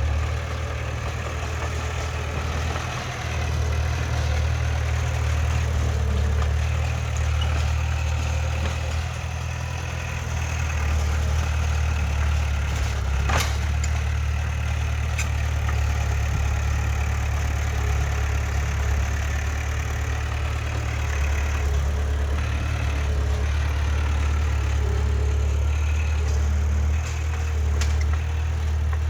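Heavy diesel engine of earthmoving machinery running steadily, a deep drone, with one sharp click about 13 seconds in.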